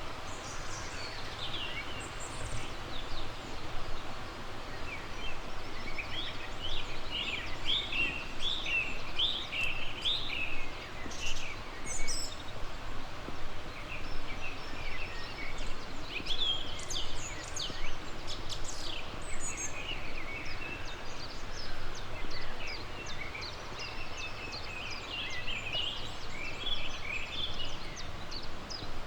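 Several small songbirds singing and calling in a dawn chorus, a steady run of short chirps and trills, over a continuous background rush.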